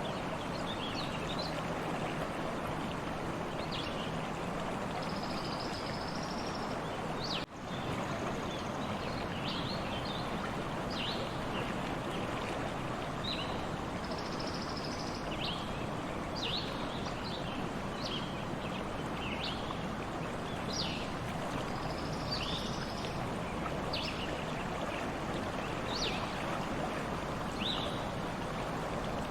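Stream flowing steadily, with small birds chirping repeatedly over the running water. The sound drops out briefly about seven and a half seconds in.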